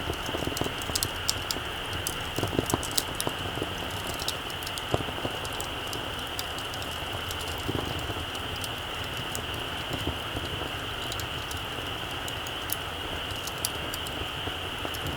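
Small wood campfire crackling, with irregular sharp pops and ticks, more frequent in the first few seconds, over a steady high hiss.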